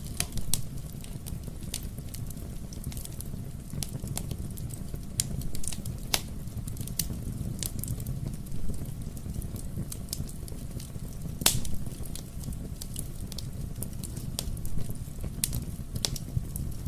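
Fire crackling in a fireplace: a steady low rumble of the flames under irregular sharp pops and snaps, the loudest pop about two-thirds of the way in.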